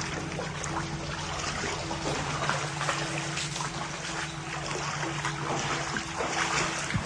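Water pouring and trickling steadily, full of small splashes, over a steady low hum.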